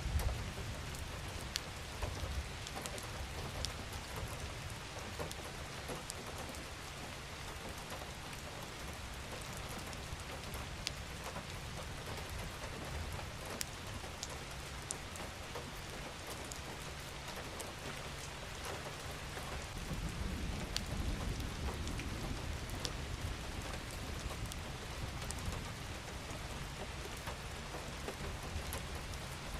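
Steady rain falling, with scattered individual drops ticking sharply on a surface. A low rumble swells up about two-thirds of the way through and then fades.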